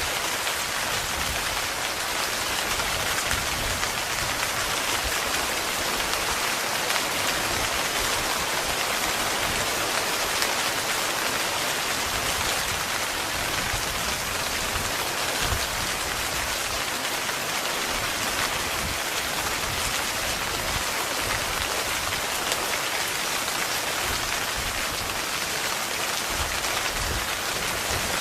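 Heavy rain falling steadily on a tent, an even, unbroken hiss.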